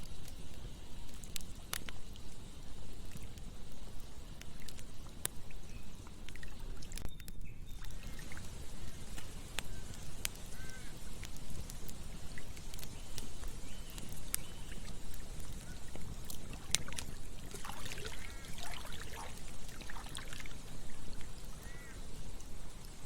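Campfire crackling with scattered sharp pops over the steady rush of flowing river water, with a short run of chirping calls about three-quarters of the way through.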